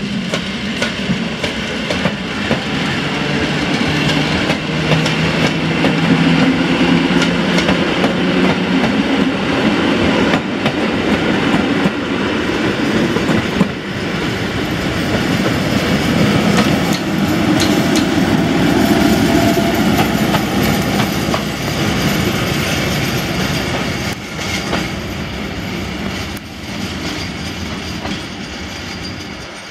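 EN57 electric multiple unit and SM42 diesel shunting locomotive running past on parallel tracks: wheels clacking over the rail joints, over the low sound of the diesel engine running. The sound swells twice and fades toward the end.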